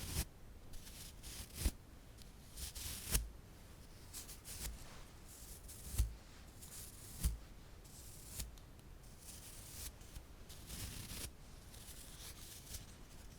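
Close-miked ASMR trigger sounds: scattered light taps and clicks with soft crinkly rustling between them as objects are handled.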